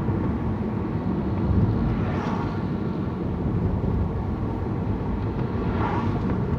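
Steady low rumble of a car's engine and tyres while driving, with two brief hissing swells, one about two seconds in and one near the end.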